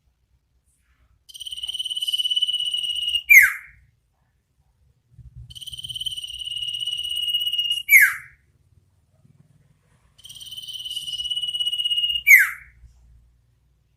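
An iora (cipoh) calls three times, at roughly even intervals. Each call is a high, even trill held for about two seconds, ending in a loud down-slurred whistle: the 'ngetir' trill followed by the 'nyipow' note.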